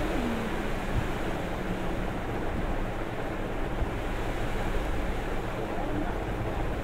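Oil sizzling steadily in a karahi as potatoes, egg, onion and chilli are stir-fried, with a few knocks of the spatula against the pan.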